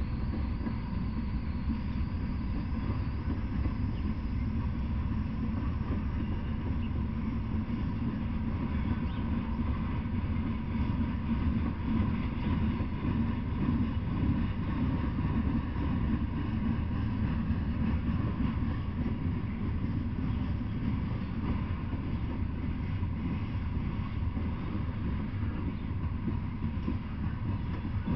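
Freight train of open-top hopper cars rolling past at a steady pace: a continuous low rumble of wheels on rail.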